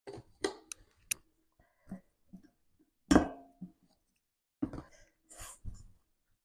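Hands kneading whole wheat poori dough: irregular soft slaps, thumps and clicks, the loudest about three seconds in.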